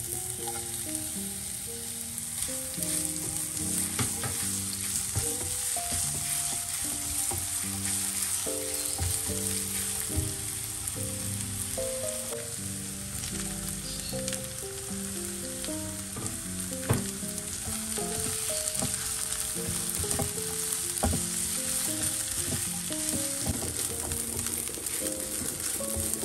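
Chopped onion and strips of smoked beef frying in a non-stick pan: a steady sizzle, with a silicone spatula scraping and stirring and tapping the pan now and then.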